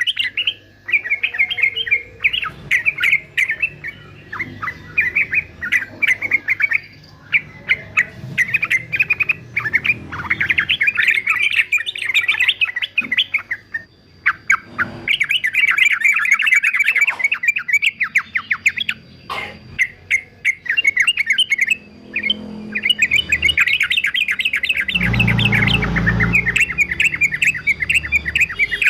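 Male yellow-vented bulbul (trucukan) singing its excited fighting song: long bursts of rapid, chattering notes broken by short pauses. A low rumbling thump comes about 25 seconds in.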